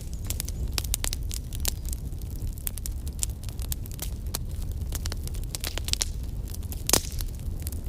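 Wood fire burning and crackling: a dense run of short sharp pops and snaps over a steady low rumble, with one louder pop near the end.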